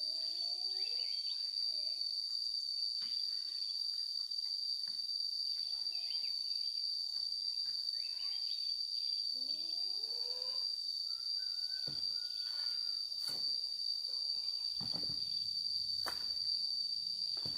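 Insects chirring in one continuous high, steady tone, with a few faint calls and light knocks in the background.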